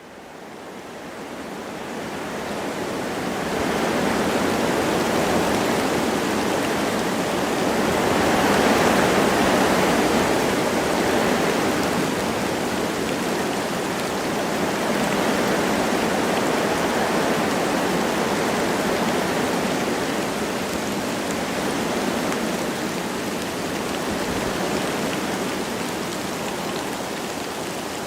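Wind blowing through forest trees with light rain, a steady rushing hiss. It fades in over the first few seconds and swells about a third of the way through.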